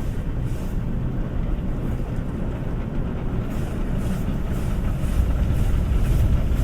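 Automatic gantry car wash heard from inside a kei car's cabin: a steady low rumble of the machine and water against the body. A faint high hiss pulses about two or three times a second, and the rumble grows louder about five seconds in.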